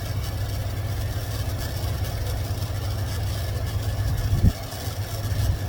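Carburetted engine of a 1984 tow truck idling with a steady low rumble, just after being restarted. About four and a half seconds in there is a short knock, and the idle briefly drops quieter before picking back up.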